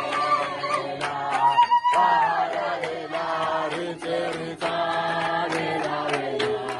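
Voices singing together in long, held notes that glide from one pitch to the next, with a chant-like, choral sound.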